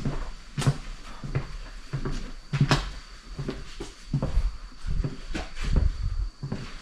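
Footsteps on a hard floor: irregular short knocks and low thumps, about three a second.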